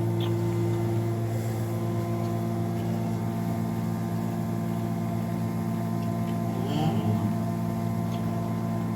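Steady machine hum made of several even tones, with a short wavering sound near seven seconds in.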